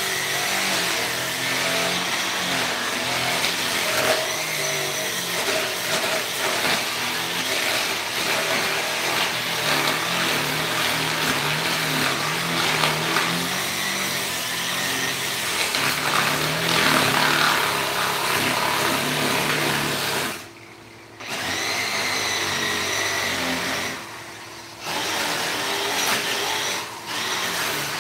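Power tool working a wooden carving, running steadily with a wavering pitch and stopping briefly three times in its last third.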